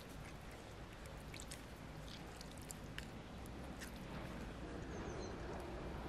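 A person chewing a bite of Turkish corn flour bread: quiet mouth sounds and small, scattered crunchy clicks over a faint background hiss.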